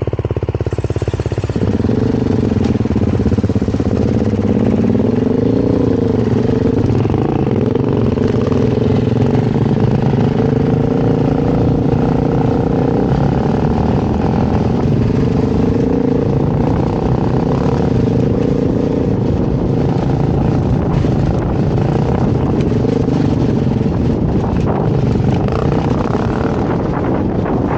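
Beta dirt bike engine running while being ridden, its revs rising and falling over and over.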